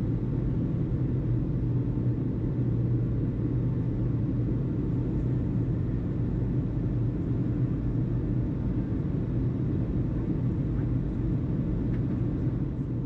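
Steady low rumble with a constant low hum, unchanging throughout.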